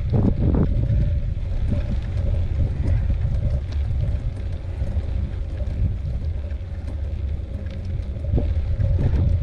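Wind buffeting the microphone during a bicycle ride, a steady low rumble, with scattered light clicks and rattles and a faint steady hum underneath.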